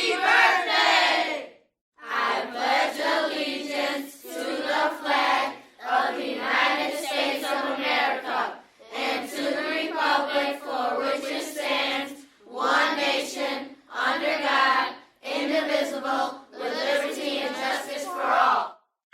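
A crowd of many voices shouting together in about ten bursts of one to three seconds each, with short silences between them.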